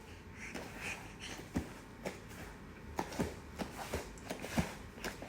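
Irregular light taps and knocks, a dozen or so short clicks at uneven spacing, more of them in the second half, like objects being handled.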